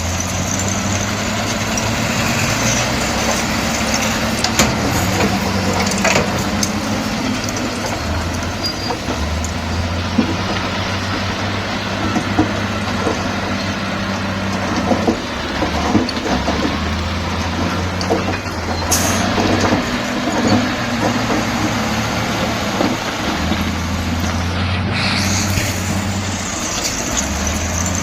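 Diesel engine of a heavy earthmoving machine running under load, its pitch stepping up and down several times as the engine speed changes, with scattered clanks and knocks.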